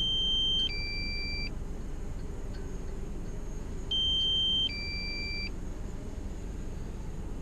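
Drone remote controller's warning alert: a two-tone electronic beep, a higher tone followed by a lower one, sounding twice about four seconds apart over a steady low rumble.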